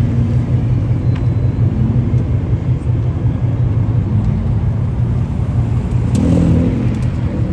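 Car engines running with a deep, steady rumble, and one engine note swelling louder for under a second about six seconds in.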